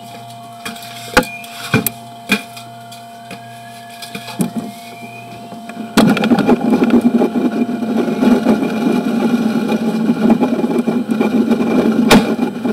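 Faint electronic tone from a sewer-camera locator searching for the camera head, with a few sharp clicks and knocks. About six seconds in, a loud steady machine noise cuts in suddenly and keeps going.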